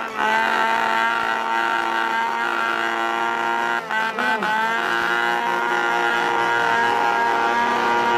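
Motocross bike engines running steadily, with a brief drop in pitch about four seconds in.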